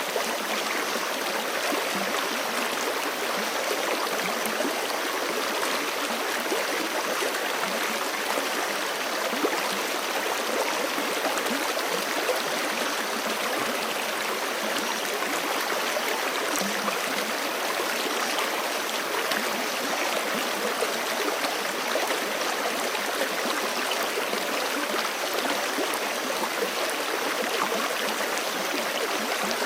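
Forest creek flowing steadily over rocks, a continuous rush of water with small gurgles and splashes.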